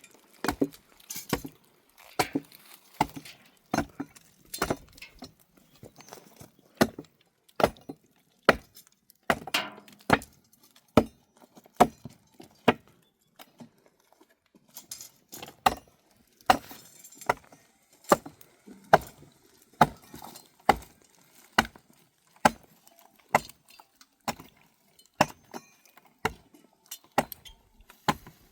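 Repeated sharp knocks or chopping strikes, about one to two a second, with a short pause about halfway through.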